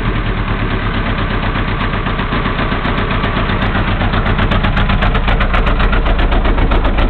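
Datsun L20B inline-four on dual Weber 32/36 downdraft carburettors idling steadily. It grows louder, with a more distinct pulsing, about halfway through.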